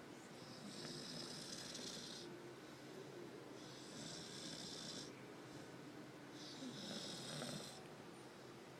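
A sleeping dog snoring: three breathy, hissing snores about three seconds apart, each lasting a second or more.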